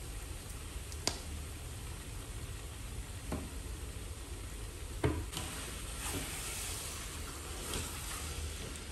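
Chicken pieces sizzling steadily in a large wok with tomato sauce and sweet soy sauce, with a few faint knocks; the sizzle gets a little stronger from about halfway.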